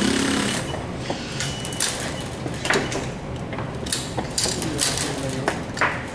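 Irregular knocks, clinks and scrapes, about half a dozen over a few seconds, of parts or tools being handled during hands-on assembly work.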